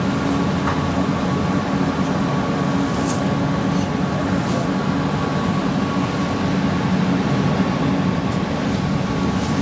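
PESA Fokstrot tram running between stops, heard from inside the passenger cabin: a steady low rumble of wheels on rail with a thin, even whine from the traction drive and a few faint ticks.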